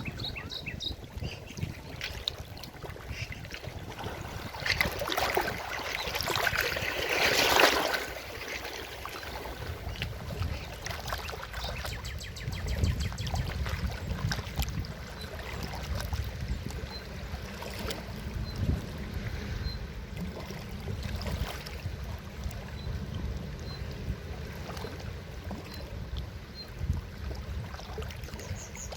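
Forest river flowing steadily, a continuous rush of water with a deep low rumble. About five seconds in, a louder surge of rushing noise swells for about three seconds and then drops back.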